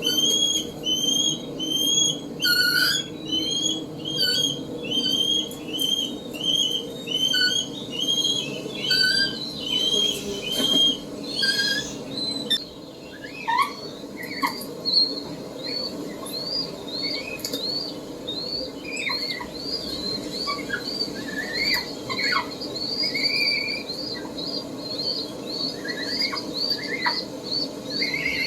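Peregrine falcons calling: a run of repeated harsh calls, about two a second, for the first half, then a change to a faster series of higher, shorter calls with scattered lower chirps among them.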